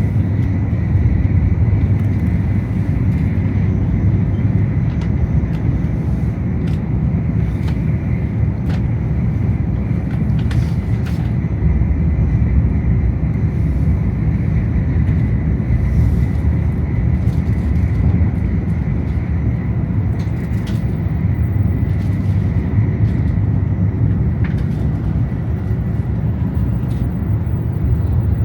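Shinkansen bullet train running between stations, heard from inside the passenger car: a steady low rumble with a faint high tone over it and a few faint clicks.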